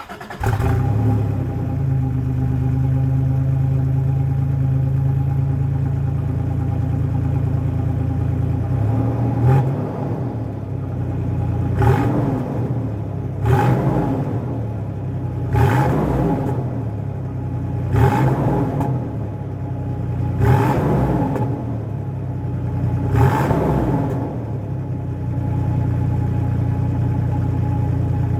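Exhaust of a 1995 Toyota 4Runner through a new cat-back exhaust: the engine idles steadily, then is blipped seven times in quick revs that rise and fall back to idle between each.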